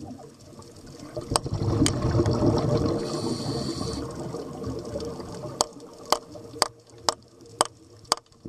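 Rushing, bubbling water noise recorded underwater, swelling for a few seconds, followed by sharp, evenly spaced clicks about two a second.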